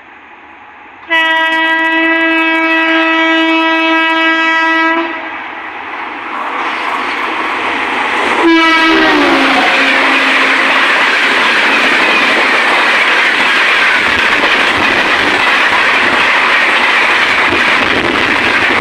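Indian Railways express train passing at about 130 km/h: a long, steady locomotive horn blast starting about a second in, a second blast about eight seconds in whose pitch drops as the locomotive goes by, then the loud, steady rush and clatter of the coaches passing.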